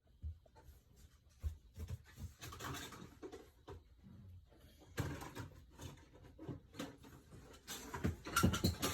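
Irregular knocks, clicks and rustling of things being handled, with a cluster of louder knocks near the end.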